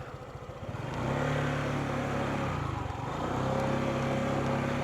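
Motorcycle engine idling, then pulling away at low speed about a second in. The engine note eases off briefly near the middle and picks up again.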